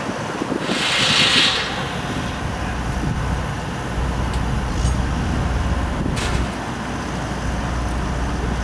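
Steady low rumble of construction machinery engine running, with a short hiss about a second in and a single sharp knock about six seconds in.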